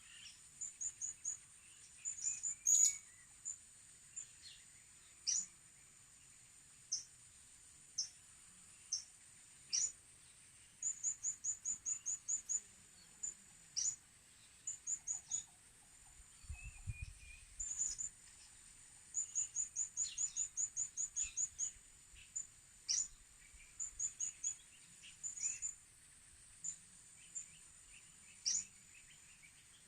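Blue-crowned hanging parrots (serindit) calling: thin, sharp, very high chirps, some single and some in quick runs of six to eight, over a steady high drone.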